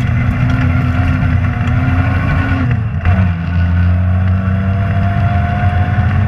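Rally car engine running hard, heard from inside the car; its pitch holds, drops sharply about three seconds in, then holds steady again.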